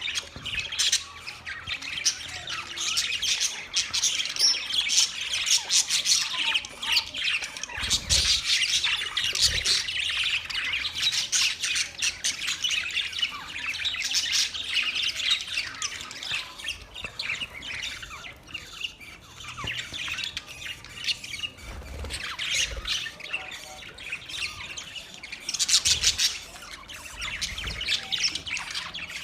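A flock of budgerigars chattering continuously, a dense mix of many short chirps and squawks.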